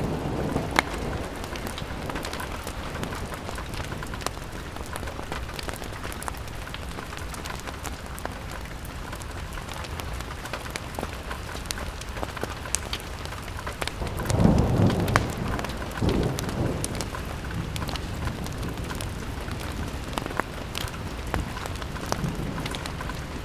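Steady rain falling on a window, with scattered sharp drip ticks. A brief low rumble swells about fourteen seconds in and fades over a couple of seconds.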